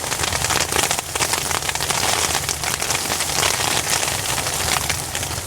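Hail falling hard in a dense, steady stream of small hits, over a low steady rumble.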